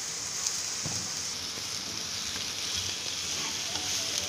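Raw chicken pieces sizzling steadily in a hot frying pan, with a spatula starting to stir them near the end.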